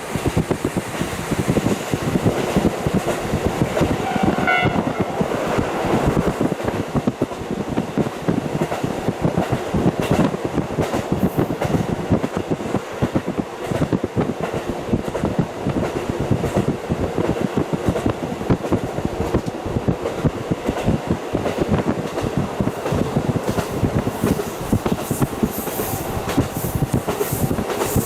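KiHa 40 diesel railcar running along the line, heard through a fully open window: a steady rumble of wheels on rail with wind rushing in. A short horn note sounds about four seconds in.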